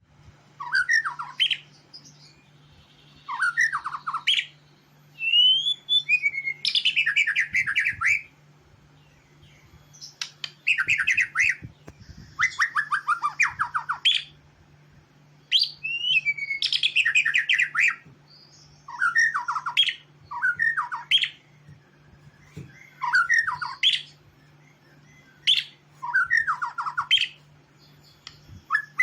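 White-rumped shama of the Medan variety singing in full voice: a run of varied phrases, each one to two seconds long with short pauses between, mixing whistled up-and-down glides with fast rattling trills. A faint steady low hum sits underneath.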